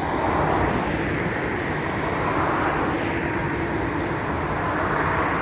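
Steady vehicle noise: an even roar with a faint engine hum in the middle.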